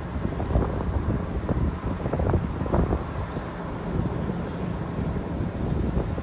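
Wind buffeting the microphone outdoors, an irregular gusty low rumble.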